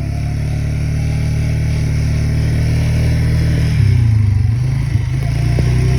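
Four-wheeler (ATV) engine running steadily under way, close to the microphone. About four seconds in, the engine speed dips briefly, then picks back up.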